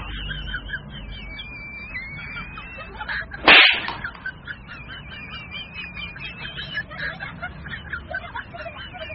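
Birds chirping and warbling steadily, with one loud, sudden noisy burst like a whoosh or hit about three and a half seconds in.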